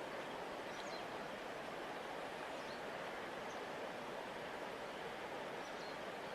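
Steady rushing flow of a large river, an even wash of water noise. A few faint, short, high chirps sound over it now and then.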